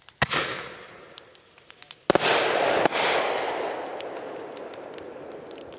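Aerial fireworks bursting: a sharp bang about a quarter second in, then a louder bang about two seconds in with a long noisy tail that slowly fades away.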